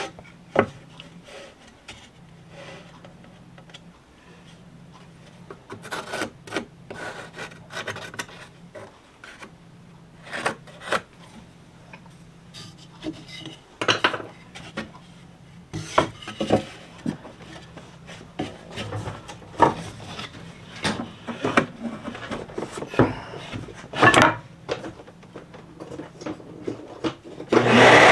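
Pencil tracing and rubbing on cedar fence picket boards, with scattered short knocks and clicks as the boards are handled. A power tool starts up loudly just before the end.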